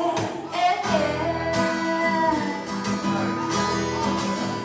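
Acoustic guitar strummed steadily in a live song, played between sung lines, with low notes joining about a second in.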